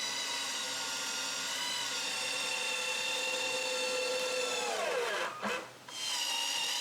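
Power drill driving a long 8-inch screw through a roof truss into the wall: a steady motor whine that slows and drops in pitch as the screw goes in, stopping about five seconds in, then runs again briefly near the end.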